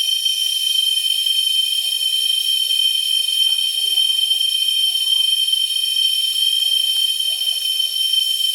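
Steady, unbroken chorus of insects in tropical rainforest, several high-pitched tones held together without a pause.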